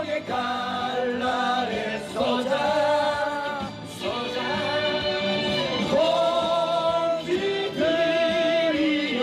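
A rally song: voices singing a slow melody in long held notes over musical accompaniment.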